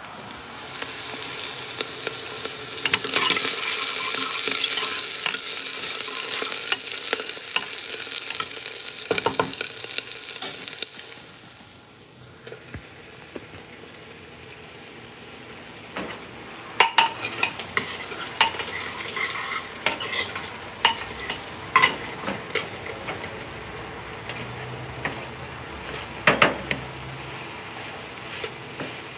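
Chopped okra frying in hot oil in a pan, sizzling loudly for about the first eleven seconds, then dropping to a quieter sizzle. From about the middle on, a wooden spatula scrapes and taps against the pan as the okra is stirred.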